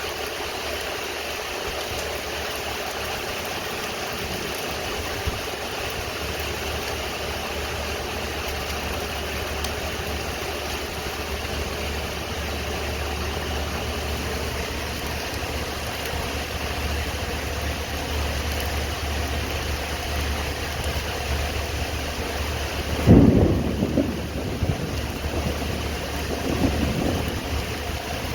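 Steady rain over a low, steady hum. About 23 seconds in, a sudden clap of thunder breaks out and rumbles on for several seconds.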